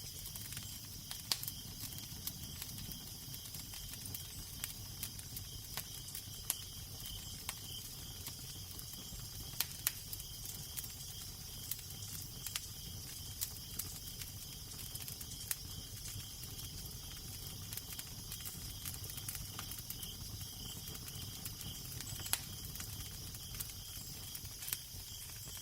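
Fire crackling with irregular sharp pops and snaps over a steady low wind rumble and soft hiss.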